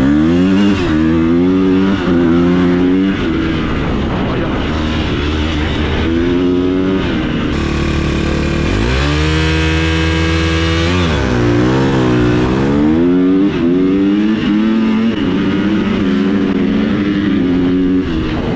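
Motorcycle-type engine revving up and down repeatedly, with one long climb to high revs about eight seconds in that falls away sharply around eleven seconds.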